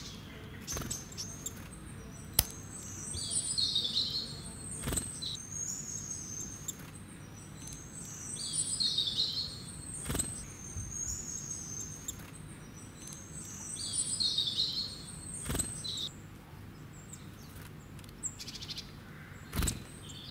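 Bird chirps and trills in three similar high phrases about five or six seconds apart, over a faint low hum, with a few sharp clicks in between, the loudest a couple of seconds in.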